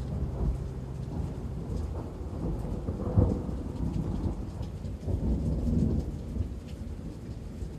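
Recorded rain falling steadily with thunder rumbling low, swelling about three seconds in and again around five to six seconds.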